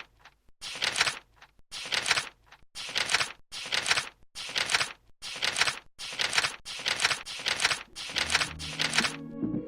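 A regular series of short, sharp bursts of noise, about two a second, then music starts near the end.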